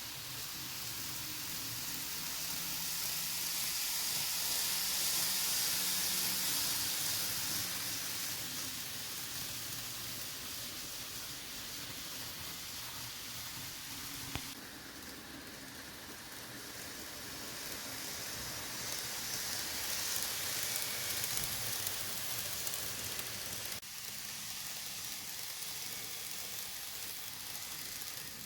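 N-gauge model train running on the layout: a steady rolling hiss of wheels on rail with a low motor hum. It grows louder twice as the train passes close, and the sound changes abruptly twice.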